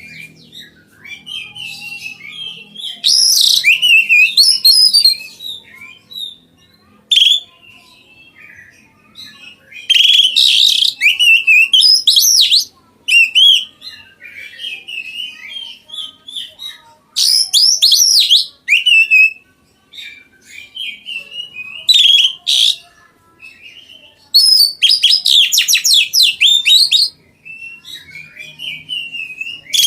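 A songbird singing loudly in repeated phrases of one to two seconds, made of varied whistles and fast trills, with quieter twittering between them.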